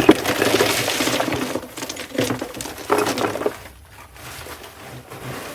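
Loose stones poured into a plastic tub in a rattling clatter. A sharp knock comes at the start, then about two seconds of pouring, and two shorter pours follow.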